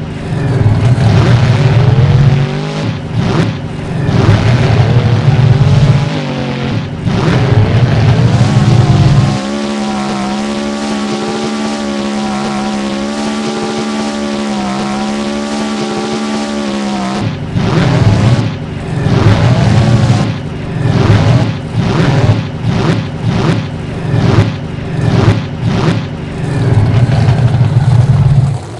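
Monster truck engine revving hard in loud bursts, pitch swinging up and down, then holding a steady drone for several seconds. After that it is blipped in short, sharp revs about once a second.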